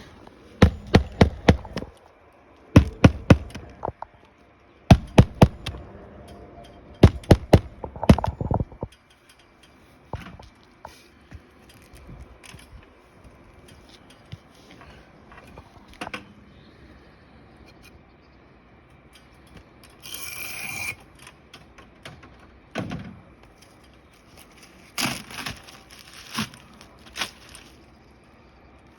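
Hammer blows in four quick runs of several strikes each during roof shingle repair work, then quieter scraping, tapping and knocking of tools on the asphalt shingles.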